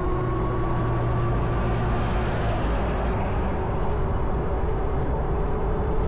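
E-bike riding along a trail: a steady rush of wind and tyre noise with a faint steady whine.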